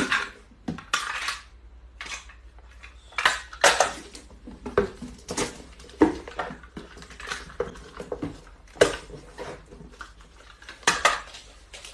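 A string of irregular clinks and clatters of hard dishware-like objects knocking together, about a dozen sharp hits with short ringing tails.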